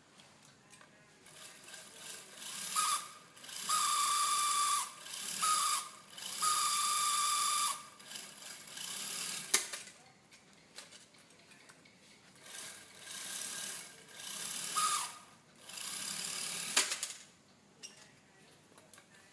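Small electric motor spinning a model helicopter rotor in repeated bursts of about a second each, whirring with a steady whine and switching on and off, with a sharp click near the end.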